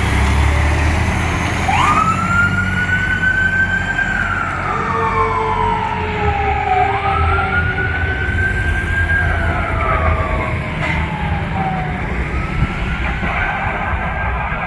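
Fire truck siren on a slow wail, starting a couple of seconds in and rising and falling in long sweeps of about five seconds each, over the rumble of the truck's engine.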